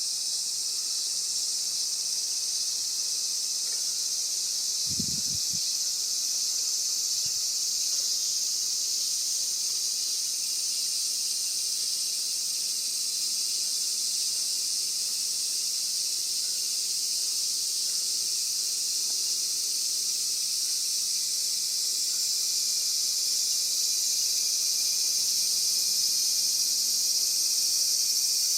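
A steady, high-pitched chorus of insects, with one brief low thump about five seconds in.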